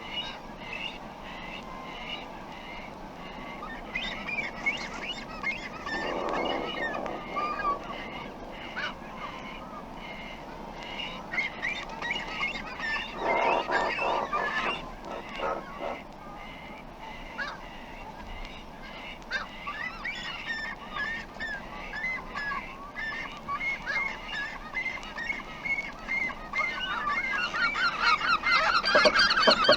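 Double-crested cormorant colony calling: a dense chorus of short repeated calls, with two longer, deep, rasping grunts about six and thirteen seconds in. The calling grows louder and busier near the end.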